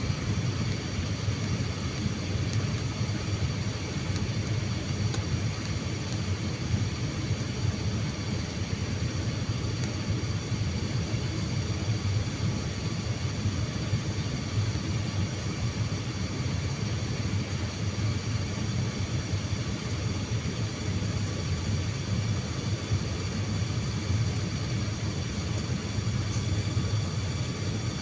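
Airliner cabin noise: a steady low rumble of the engines and rushing air, with faint steady high-pitched tones over it.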